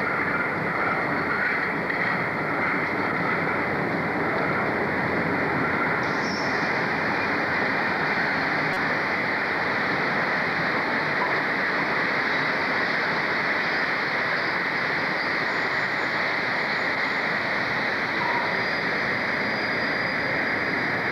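A train running, a steady rushing rumble with no distinct beats or changes.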